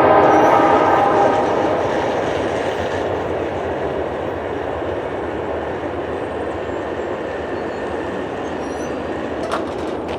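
Freight train rolling past the grade crossing, a steady rumble of wheels on rail that slowly fades as the train moves away. In the first second, the tail of the locomotive's Nathan P3 horn dies out. A single sharp knock comes near the end.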